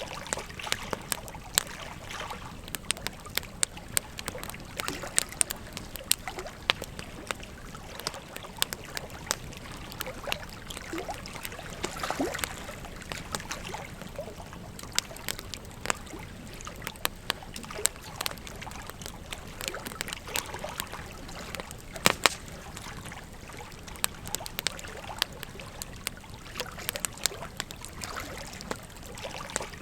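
Wood fire crackling, with frequent sharp snaps and pops scattered irregularly, the loudest a cluster of pops a little past the middle, over the steady rush of a flowing river.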